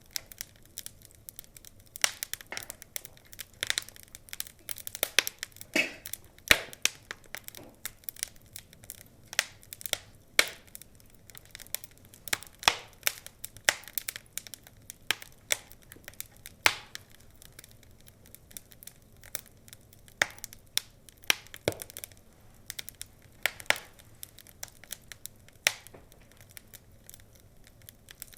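Burning wood logs crackling, with irregular sharp pops and snaps, sometimes several a second, over a faint hiss.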